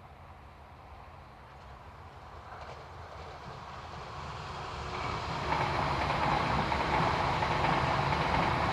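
E6 series Komachi Akita Shinkansen train approaching on conventional track, growing steadily louder over about five seconds and then passing close by with a loud, steady rush of wheel and running noise.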